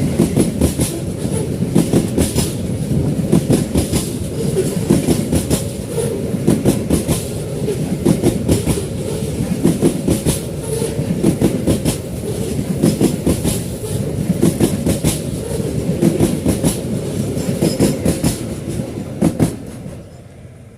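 Freight wagons of a Babaranjang coal train rolling past, wheels clattering over the rail joints in a steady run of clicks over a heavy rumble. The sound drops away suddenly just before the end.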